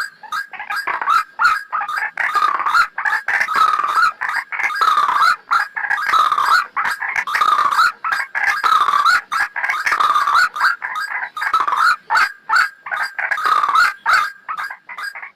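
White-breasted waterhen (ruak-ruak) calls used as a bird-trapping lure: a rapid, unbroken string of short, repeated notes.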